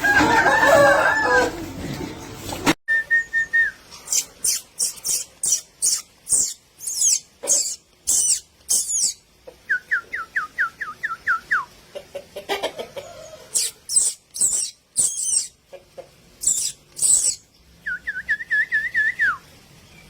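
Birds calling in a poultry yard: many short, very high chirps, and twice a run of about seven quick whistled notes stepping down in pitch. In the first couple of seconds a voice or music is heard, then it cuts off abruptly.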